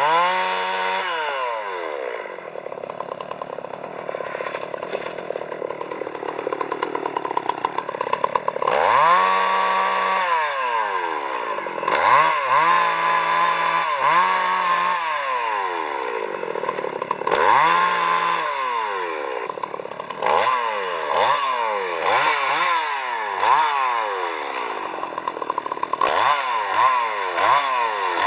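Chainsaw engine revving up and down again and again, held at high revs for a second or two at a time, with quicker, shorter revs near the end.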